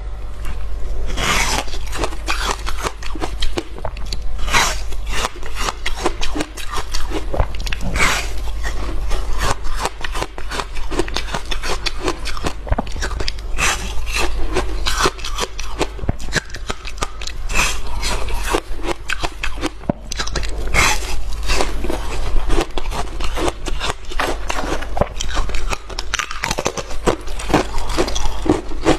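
Close-up crunching and chewing of hard ice, with frequent irregular crackles and crunches as the ice breaks between the teeth. A steady low hum runs underneath.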